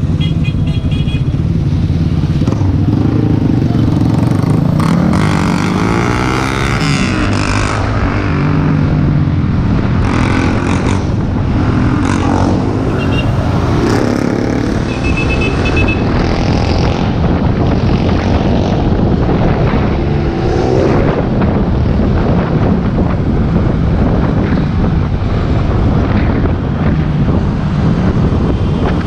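Road and wind noise from riding in city traffic, a steady loud rumble with the pitch of passing vehicles rising and falling.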